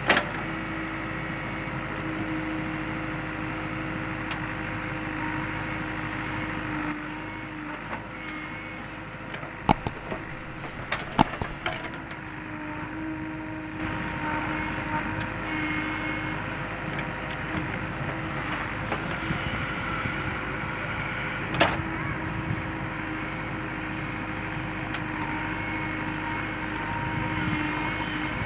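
JCB 3DX backhoe loader's diesel engine running steadily while it digs soil, with a cluster of sharp knocks about a third of the way in and one more a little past the middle.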